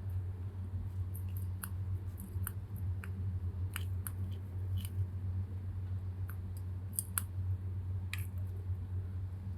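Kitten playing in a Christmas tree: scattered light clicks and rustles at irregular intervals, over a steady low hum.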